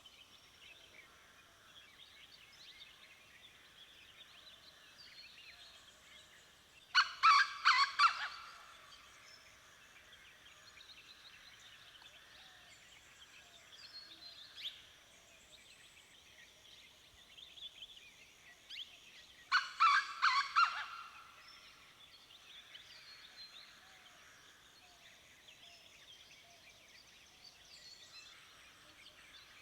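Dawn chorus of mixed birds: many faint chirps and whistling songs. Twice, a loud, rapid rattling call cuts through, each lasting a second or two.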